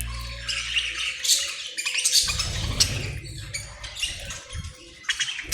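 Small pet parrots chirping and squawking in short, irregular calls, with a low rumble starting about two seconds in.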